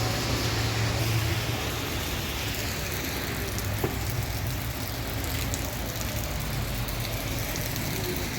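Steady rain with a low traffic hum, and a single sharp click about four seconds in.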